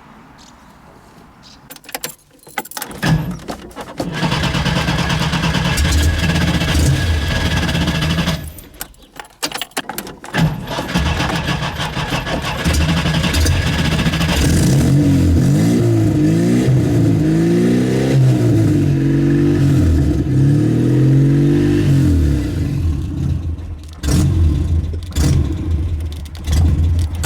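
Skoda 120's four-cylinder engine being started with the accelerator pumped. It starts running about four seconds in, dies out around eight seconds in, then runs again and is revved up and down several times. A few short bursts of engine sound come near the end.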